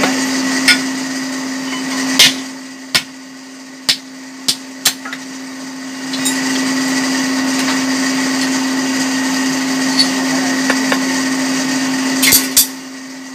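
Steady hum and whir of an electric blower feeding a forge furnace, its rushing quieter for a few seconds early on, with sharp, irregular hammer blows on metal, about nine in all, as a red-hot chopper blade is beaten thin.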